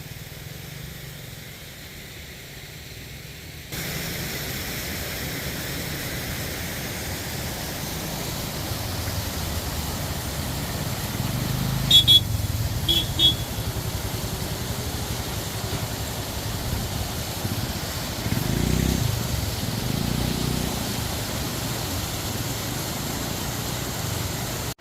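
Motorcycle riding along a road with steady engine and wind noise that starts abruptly a few seconds in; a horn gives a few short beeps about halfway through.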